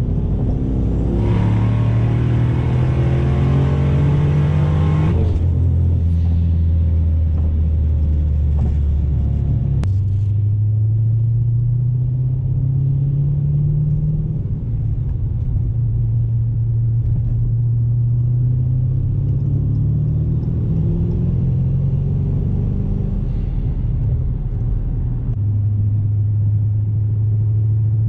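Twin-turbo Dodge Challenger Hellcat's V8 heard from inside the cabin on the move. In the first five seconds a rising engine note comes with a loud rushing hiss that cuts off suddenly. After a sharp click about ten seconds in, the engine drones on, its pitch rising and falling with the throttle.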